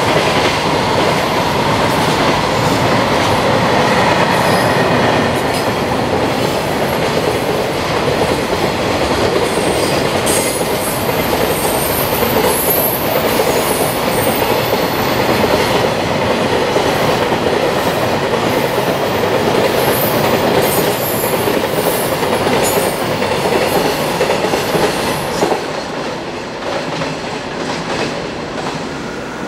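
Container wagons of a long freight train rolling past on slab track, with a steady loud rolling rumble and the clatter of wheels over the slab-track joints. The sound falls off about 26 seconds in as the last wagons go by.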